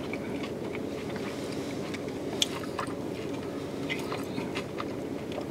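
A person chewing a mouthful of slider hamburger, with soft wet smacks and clicks and one sharper click about two and a half seconds in, over a steady low hum.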